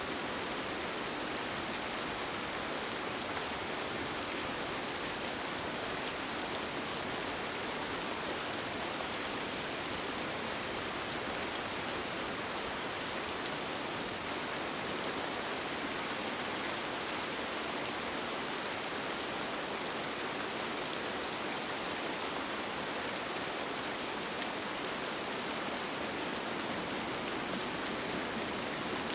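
Steady rain falling on a tent: an even hiss with faint, scattered drop ticks.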